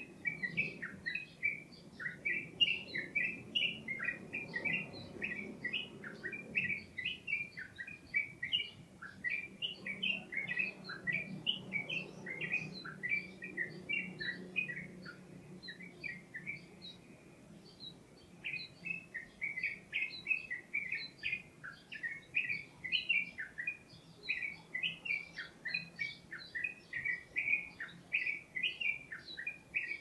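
Birds chirping in a busy, continuous run of quick, short, high notes, with a brief pause a little past halfway.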